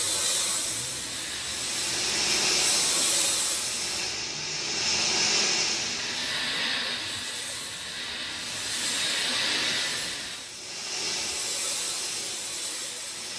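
Steady rain falling, a continuous hiss that swells and eases every few seconds.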